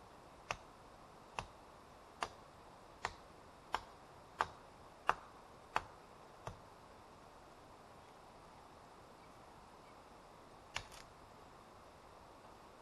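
A series of sharp taps: eight at a steady, slightly quickening pace, then after a pause one more, doubled.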